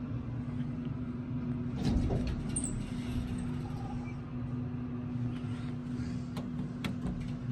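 Dover hydraulic elevator, modernized by ThyssenKrupp, running: a steady motor hum with a low rumble, a soft thump about two seconds in and a couple of light clicks near the end.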